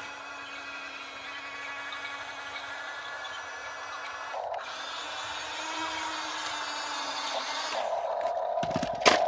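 Electric motors of a Huina 1/14-scale RC excavator whining steadily as its functions are driven. The pitch shifts slightly after a short break about halfway through. A louder, higher-pitched whine starts near the end, followed by a sharp knock.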